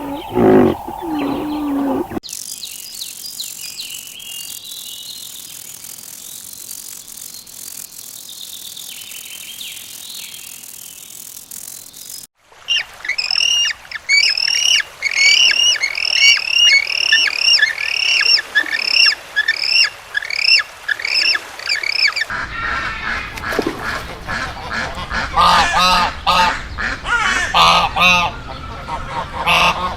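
A run of farm bird calls: after a brief low animal call at the start, quick high chirps repeat evenly for about ten seconds, then from about two-thirds of the way in geese honk over and over.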